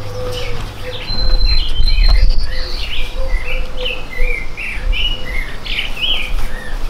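A songbird singing a quick, varied run of short chirps and whistles, over a low rumble.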